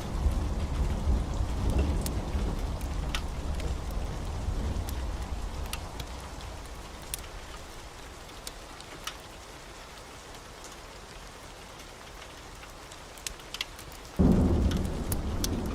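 Rain falling steadily with scattered sharp ticks, under a low rolling thunder rumble that fades away over the first six seconds. A new thunderclap breaks in suddenly about fourteen seconds in.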